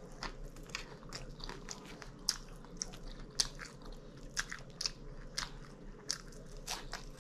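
A person chewing food close to the microphone, with sharp, irregular mouth clicks and crunches about two a second.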